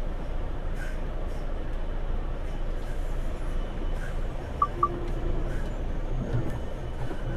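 Steady low engine and hull rumble aboard a car ferry under way, with faint knocks and two short high beeps just before the five-second mark.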